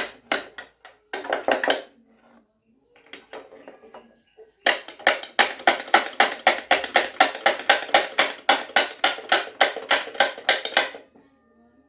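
Repeated strokes of hand-tool work, a few scattered at first, then a fast even run of about five a second for some six seconds before stopping.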